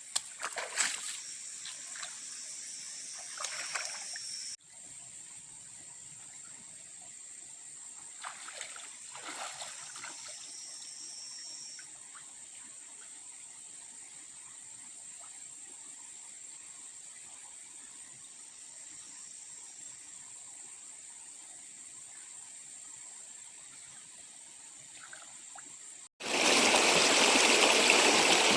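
Water splashing and trickling in two short spells over a steady high-pitched insect drone. Near the end it cuts suddenly to the loud, even rush of a flowing stream.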